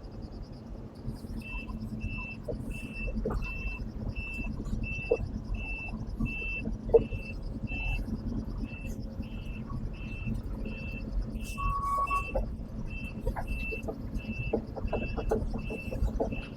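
A backup alarm beeping steadily, about one and a half beeps a second, starting about a second and a half in, over a low diesel engine rumble with scattered metal clanks.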